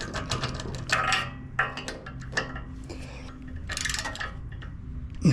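Hand tools and metal engine parts clinking and knocking in short, irregular bursts as bolts and parts are worked on a Briggs & Stratton small engine.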